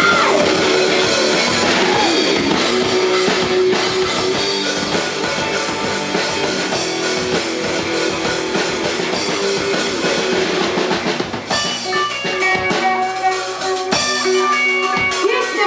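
Rock band playing, with drum kit and guitar. About eleven seconds in the full band drops to a sparser passage of held notes and single drum hits.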